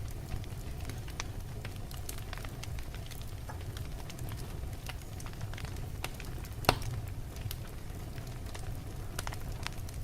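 Wood fire burning in a fireplace, crackling with scattered small pops over a low steady rumble, and one louder pop about two-thirds of the way through.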